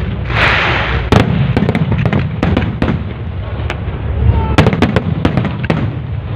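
Aerial fireworks bursting in quick succession: a run of sharp bangs and cracks over a continuous deep rumble, with a hissing, crackling burst about half a second in.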